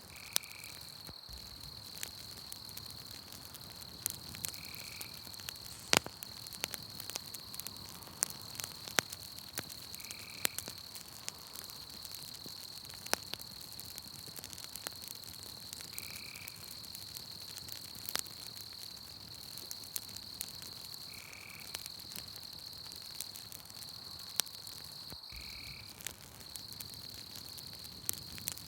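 Campfire crackling, with irregular sharp pops, over a steady high-pitched insect trill from the night forest. A short call, likely a frog, repeats about every five seconds.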